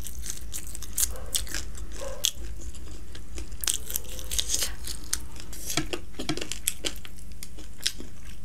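Close-miked eating sounds: chewing spicy fried chicken wings and sucking sauce off the fingers, a run of irregular wet clicks and smacks.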